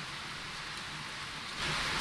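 Steady rain falling, a dense even hiss that turns suddenly louder about one and a half seconds in.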